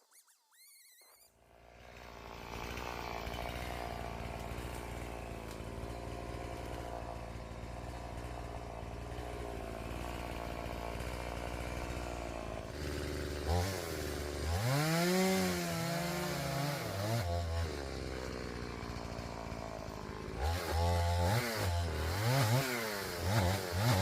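Chainsaw engine coming in about a second in and running steadily at idle, then revved up and down hard in two spells, in the middle and near the end, as it cuts into wood.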